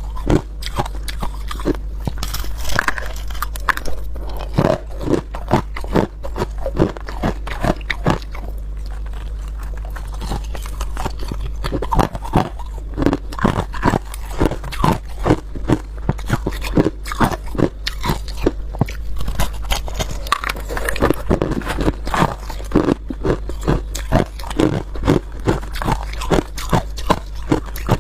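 Ice being bitten and chewed close to the microphone: a run of sharp, irregular crunches, several a second, coming in clusters.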